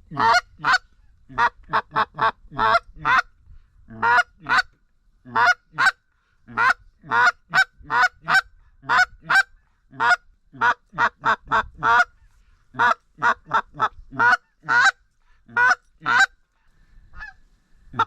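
Duck call blown in runs of short, loud quacks, two to six at a time with brief pauses between runs, calling to a circling duck.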